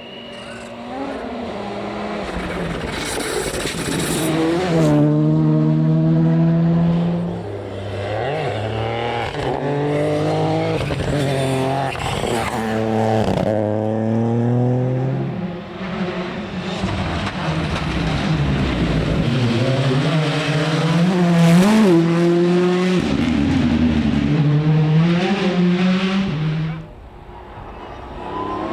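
Rally car engine revving hard under acceleration, its pitch climbing and dropping back again and again as it shifts through the gears, with tyre noise. The level dips briefly near the end.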